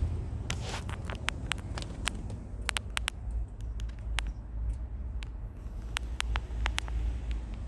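Pickup truck engine running with a low, steady rumble, with sharp clicks scattered irregularly over it.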